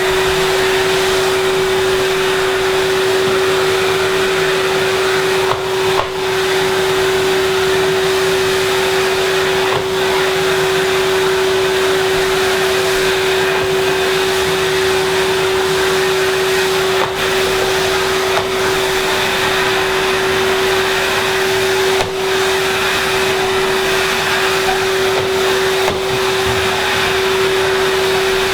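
Vacuum cleaner running steadily with a high, even motor whine as it picks up dust from a freshly sanded floor. A few brief knocks break it now and then.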